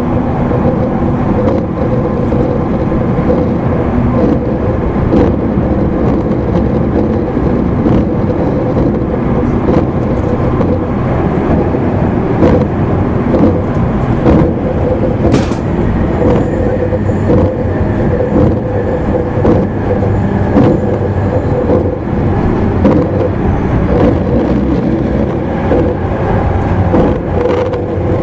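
JR East E259 series EMU running, heard inside its motor car (MoHa E259): the traction motors and gears give a steady whine over continuous wheel-on-rail rumble. Scattered sharp clicks come from the wheels over the track, one louder one about halfway through.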